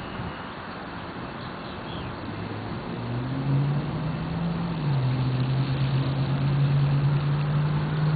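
Light rail train running, a steady rumble with a low motor hum that grows louder about three seconds in and shifts in pitch a few times.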